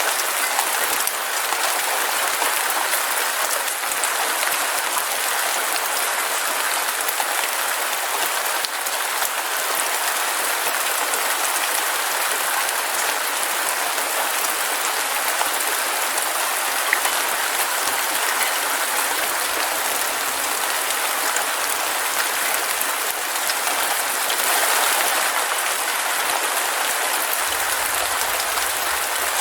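Heavy rain falling steadily, a dense even hiss of drops with a few sharper drop hits standing out.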